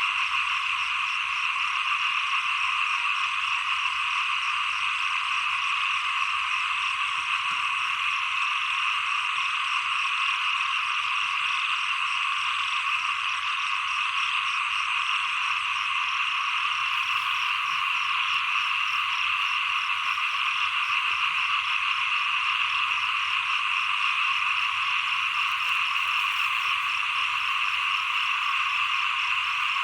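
A dense, steady chorus of many small frogs (khiat) calling together without a break.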